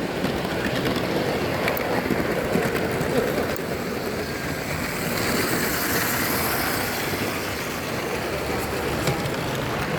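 Miniature train running along its track: a steady rail noise with a few light clicks.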